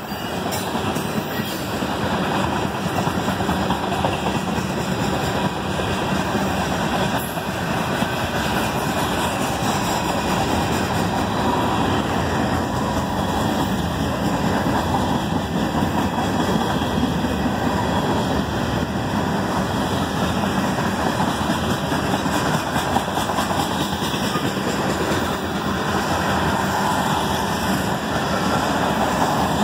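Cars of a CSX freight train (tank cars, gondolas and covered hoppers) rolling past at steady speed: a continuous steady noise of wheels running on the rails, with no horn.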